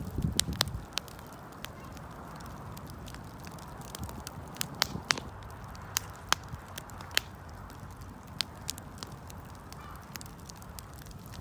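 Wood fire crackling: irregular sharp pops and snaps, a few of them loud, over a soft steady hiss of burning. A brief low rumble comes in the first second.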